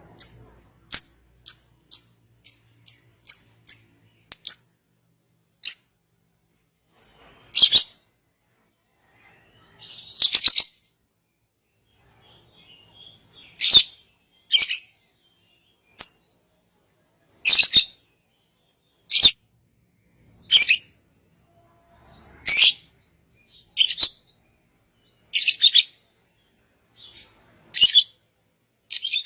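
Songbird calling: a quick run of short, high chirps about two a second, then a series of louder half-second calls repeated every second or so.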